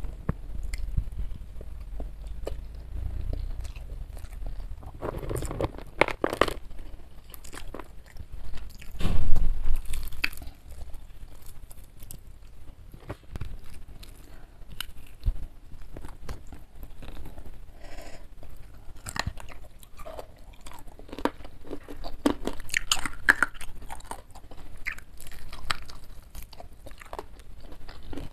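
Close-miked chewing, biting and crunching of a meal of jengkol curry, rice and crispy fried chicken eaten by hand, with many small wet clicks and crackles. About nine seconds in comes a louder low thump.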